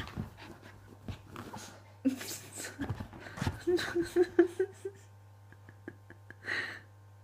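A puppy playing wildly: scuffling and knocks, with a short run of high whines about halfway through.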